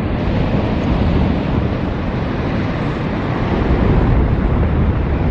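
Wind buffeting the microphone over the steady wash of breaking surf, with no clear engine note.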